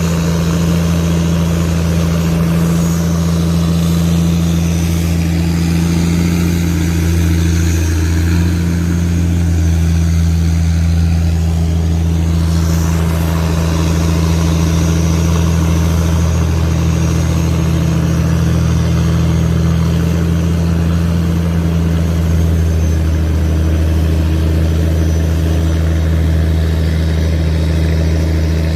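Tugboat's diesel engine running steadily, a loud, deep, continuous drone.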